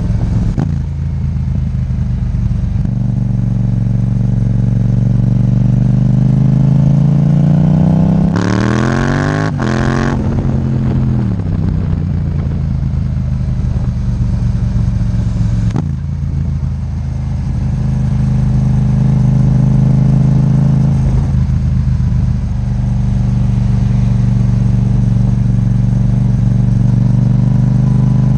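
Yamaha MT-07's 689 cc 270-degree-crank parallel-twin running through an Akrapovic titanium exhaust while being ridden. It holds a mostly steady note, with one long rise in revs from about three seconds in that breaks off sharply near ten seconds and drops back.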